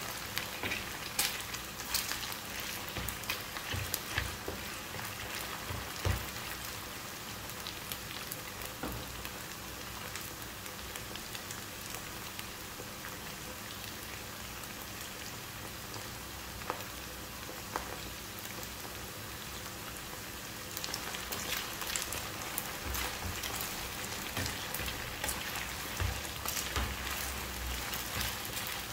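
Chicken pieces frying in oil in a nonstick pan: a steady sizzle with crackles. A slotted spatula stirs and knocks in the pan at the start and again in the last several seconds.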